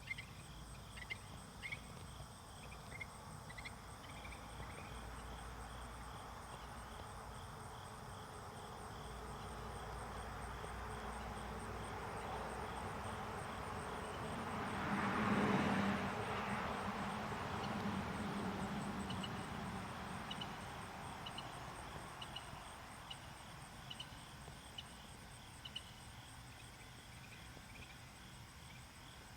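Crickets and other insects trilling steadily in a rapid pulsing rhythm. A passing vehicle swells to a peak about halfway through and then fades away under them.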